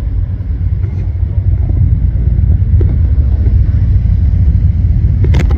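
Low, steady rumble of an arriving Airbus A330-300 jet airliner's engines, slowly growing louder, with a sharp click near the end.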